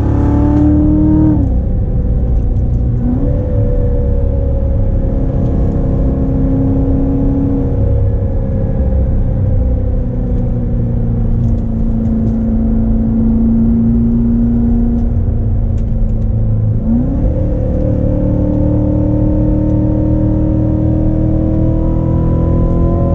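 2016 Corvette Z06's supercharged V8 running under light load while driving, a steady drone over low road rumble. The engine note drops about a second in, then jumps up sharply twice, at about three seconds and again near seventeen seconds, as at gear changes.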